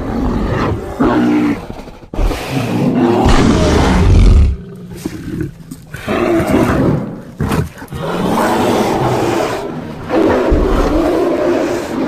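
Bear roar sound effects: a run of several loud, drawn-out roars and growls with brief gaps between them.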